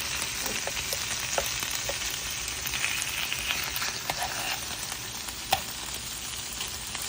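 Onions and carrots sizzling steadily in oil on an electric grill, with scattered light clicks of a utensil moving the food, one sharper click about five and a half seconds in.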